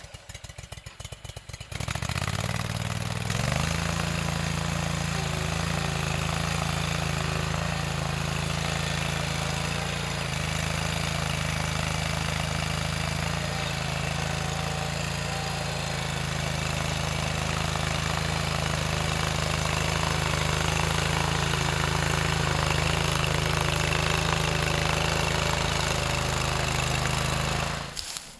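Stump grinder's petrol engine running unevenly at first, then throttled up about two seconds in, rising in pitch to full speed and running steadily.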